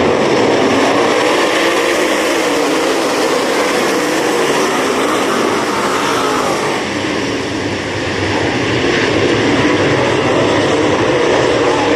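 Dirt-track race car engine running hard at speed, its note rising and falling as the throttle is worked. It eases briefly about seven seconds in, then picks up again.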